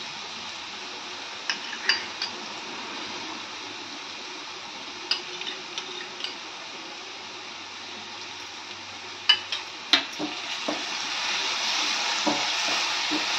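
Grated carrot halwa sizzling in freshly added ghee in a nonstick wok, with a few short knocks from a wooden spatula. Near the end the halwa is stirred briskly and the sizzle grows louder.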